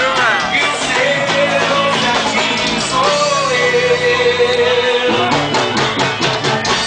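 A band playing loud, upbeat music with singing and guitar, with one long held note in the middle.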